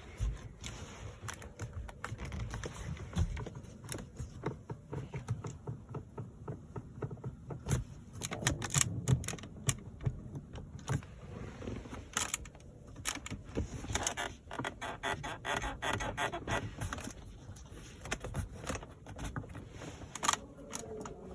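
Car interior plastic trim being pressed and worked by hand, giving irregular clicks, knocks and creaks, with a dense creaking run about fourteen seconds in: the squeaks and rattles of the cabin trim.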